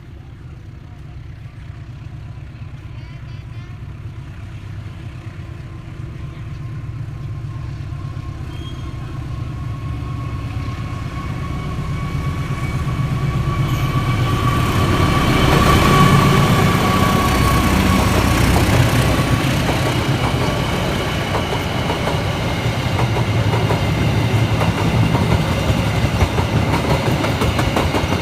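A train approaching, growing steadily louder until about halfway through, then passing close by with its wheels clattering rhythmically over the rail joints.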